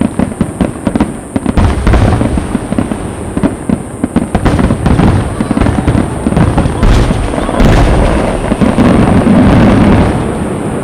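Aerial fireworks display in a dense rapid-fire barrage: shells bursting in overlapping booms and crackle, with several heavier booms, easing off near the end.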